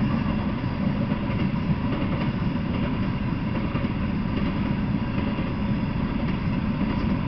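Freight train of open-top hopper cars rolling past: a steady low rumble of steel wheels on the rails.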